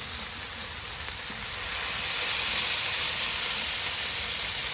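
Freshly smashed beef burger patties sizzling steadily on a hot cooking surface, an even frying hiss.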